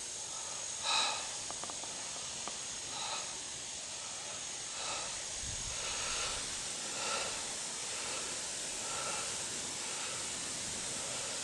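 Faint outdoor swamp ambience: a steady hiss with a thin, high, steady tone over the first half. A few soft, faint sounds come every second or two.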